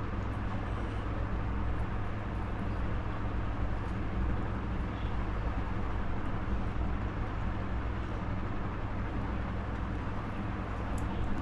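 Steady low rumbling background noise with no clear events, and a few faint ticks near the end.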